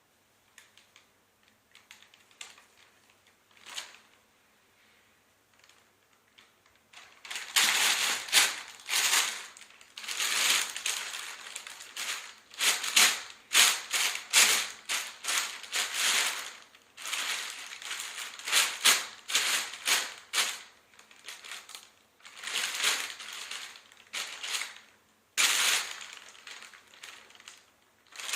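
A bag rustling and crinkling as a cat plays in it: a few faint rustles at first, then from about seven seconds in, repeated loud bursts of crackling in irregular spurts.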